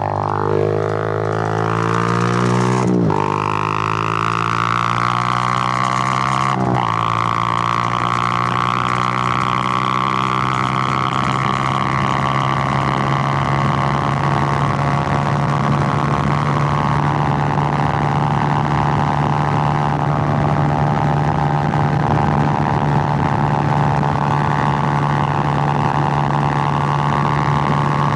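Suzuki GN125's single-cylinder four-stroke engine pulling away with its pitch rising, then dropping sharply at two upshifts about three and six and a half seconds in. After that it runs at a steady cruising pitch.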